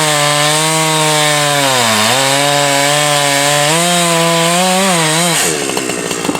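Two-stroke chainsaw running at high revs while cutting wood, its engine note dipping briefly about two seconds in as it loads in the cut. Near the end the note falls and turns ragged.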